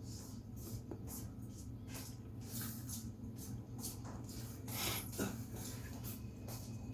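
Drawing strokes on paper: a string of short scratching strokes, with a longer, louder stroke about five seconds in, over a steady low room hum.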